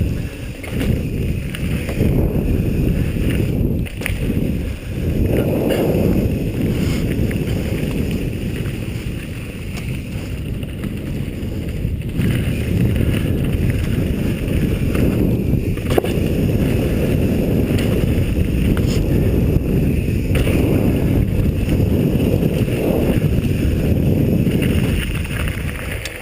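Wind buffeting the microphone with low rumble from riding a rough trail, steady for the whole stretch with a few brief dips and knocks.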